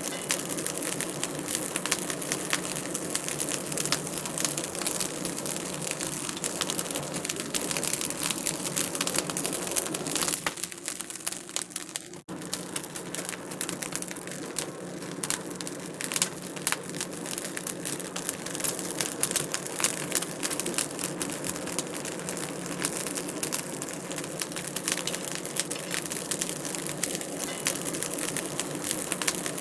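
Wood fire crackling in a fireplace: a dense run of pops and snaps over a soft hiss, dipping briefly quieter a little before halfway.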